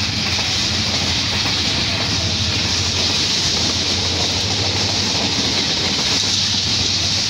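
Passenger train running at speed, heard from an open coach window: a steady rush of wheels on rail and air, over a low steady drone.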